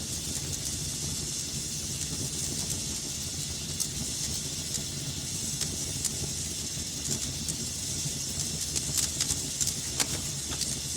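Fire burning in a fireplace: a steady hiss over a low rumble, with scattered crackles and pops that come more thickly near the end.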